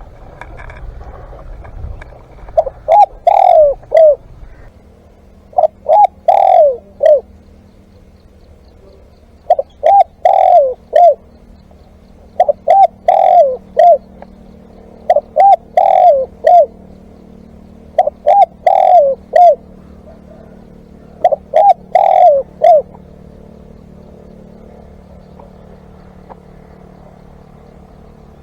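Spotted dove cooing loud and close: seven phrases of three or four low hooting notes, each phrase about a second long and repeated every three seconds or so, stopping a few seconds before the end.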